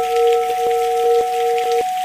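Layered steady sine tones of meditation frequencies over a soft rain-like hiss. The lowest tone pulses gently in loudness, and near the end it and a higher tone cut off abruptly, leaving a single steady mid-pitched tone with the hiss.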